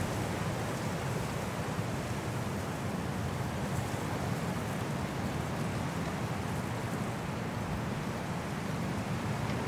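High wind blowing through trees in a snowstorm: a steady, deep rushing noise without breaks.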